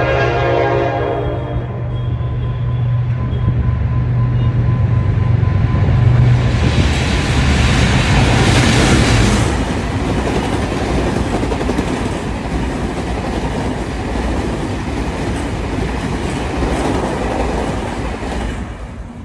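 Train running through a station without stopping: its horn ends about a second in, then the locomotive's low engine drone passes, loudest around the middle, followed by the cars rolling by with wheel clatter until the sound falls away near the end.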